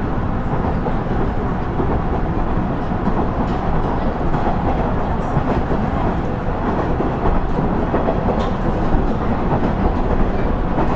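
Running noise inside a KiHa 112 diesel railcar (JR KiHa 110 series) under way: a steady low rumble from the diesel engine and wheels on the rails, with a few faint clicks from the track.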